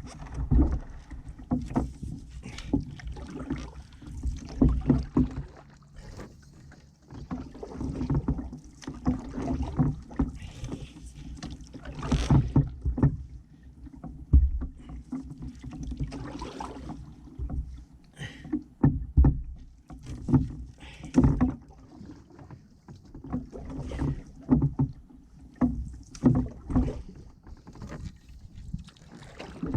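Canoe paddling: an ash-wood paddle dipping and pulling through the water beside a solo canoe, with splashes and drips, a stroke roughly every two seconds.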